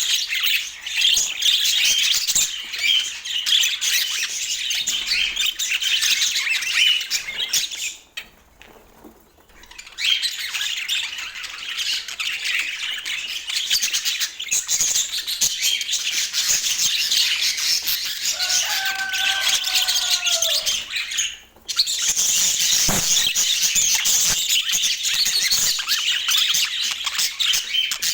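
A group of budgerigars chattering, with continuous warbling, chirps and squawks. The chatter breaks off for about two seconds roughly a third of the way in. A lower, held call comes shortly before a second brief break.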